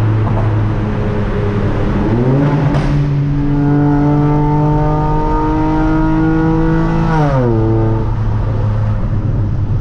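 Car engine and exhaust droning steadily while driving; its pitch rises about two seconds in, holds, then falls back about seven seconds in as the car speeds up and then eases off.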